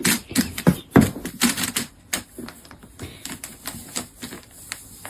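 A rapid, irregular series of sharp clicks and taps, like keys being struck. It is loudest in the first two seconds, then lighter and quicker.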